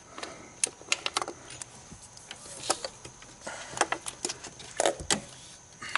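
Irregular metallic clicks and clinks of a ratchet wrench with extension and 10 mm socket being handled and fitted onto a small screw among engine parts, with a few short rattles.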